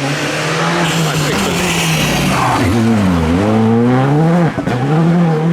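Rally car engine at full race load on the stage. Its note dips about three seconds in, the car braking and downshifting, then climbs again under acceleration, with a brief break near the end as it changes gear.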